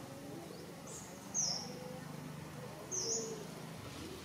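A bird's short, high chirp, dipping and rising again, repeated about every second and a half.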